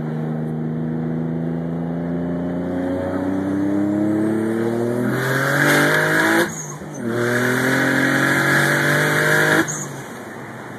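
Twin-turbocharged 3.5-litre V6 of an Infiniti G35 coupe pulling hard through second gear, its pitch rising steadily with a hiss building at high revs, then a brief dip as it shifts to third about six and a half seconds in. It pulls up again in third and cuts back sharply when the throttle closes near the end.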